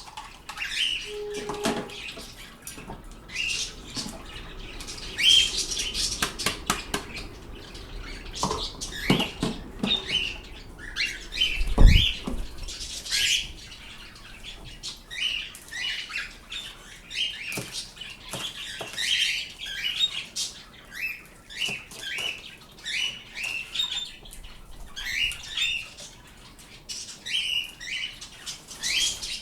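Pet birds chirping, short calls repeated about once a second, mixed with sharp clicks and knocks and one heavy thud about twelve seconds in.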